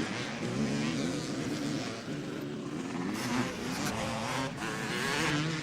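Motocross bike engines revving up and down as the bikes race around the track.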